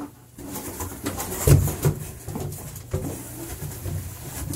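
A small bird loose in a small bathroom, fluttering and scrambling about with soft thumps and knocks, two of them louder about a second and a half in.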